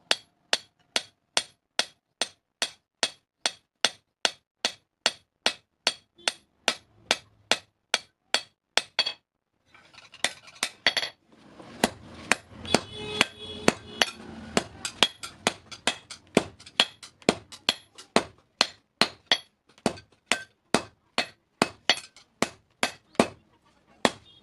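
Blacksmith's hand hammer striking hot metal on an anvil at a steady pace of about two to three blows a second, forging a hasua blade. The blows stop briefly about nine seconds in, then resume over a few seconds of rougher background noise before settling back into the steady rhythm.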